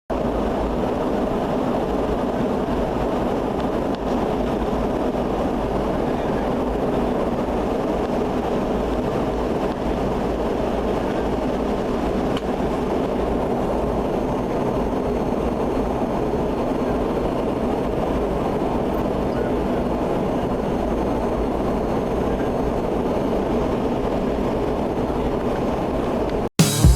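Steady, unchanging rumble of a Boeing 717-200 jet airliner, cutting off abruptly near the end.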